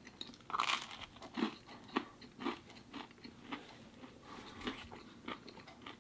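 A bite into crisp pizza crust about half a second in, then crunchy chewing close to the microphone, about two chews a second.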